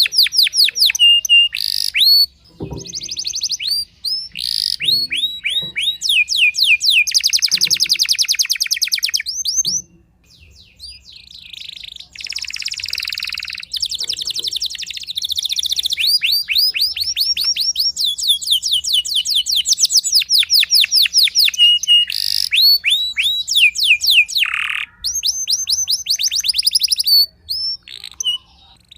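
Domestic canary singing in full song: long, high-pitched rapid trills of quickly repeated sweeping notes, broken by a few short pauses.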